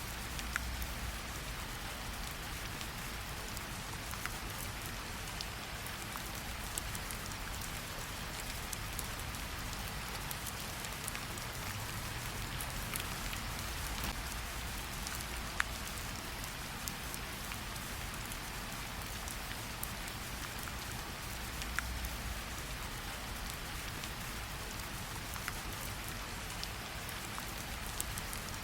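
Gentle rain falling on tree leaves: a steady hiss with scattered single drop ticks and drips from the leaves.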